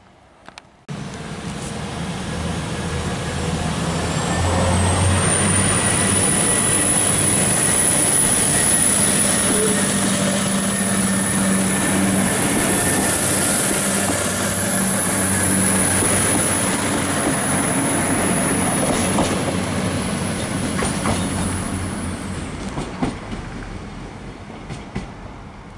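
Arriva Trains Wales Class 175 diesel multiple unit passing close by: a steady low engine drone and wheel noise on the rails, with a thin high tone from about four seconds in. The sound starts suddenly about a second in, builds, and fades away near the end with a few sharp clicks.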